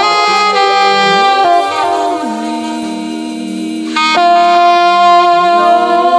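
Saxophone playing long held notes over sustained chords, with a slight dip and then a new, louder note about four seconds in.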